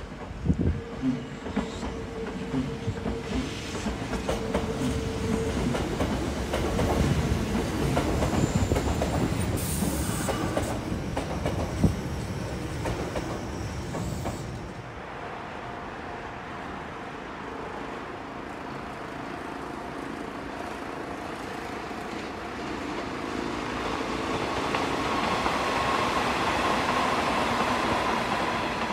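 Sanyo Electric Railway train running past, its wheels clacking over rail joints with repeated knocks and a rumble for about the first half. The sound then changes abruptly to a smoother, steady running noise with a faint whine that grows louder toward the end.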